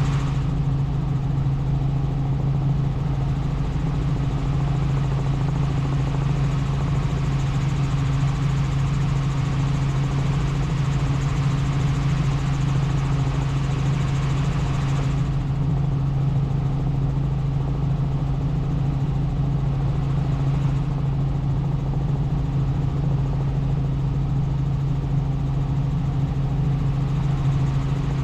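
Helicopter in flight: a steady, unbroken low drone of engine and rotors with an even hiss over it, the hiss thinning out about halfway through.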